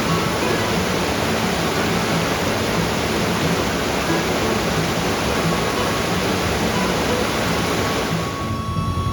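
Rushing mountain stream, a steady full rush of water. It drops away about eight seconds in as music takes over.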